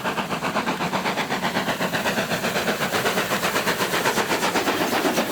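Steam locomotive exhaust beats in a fast, even rhythm of about seven chuffs a second, as the locomotive works at speed.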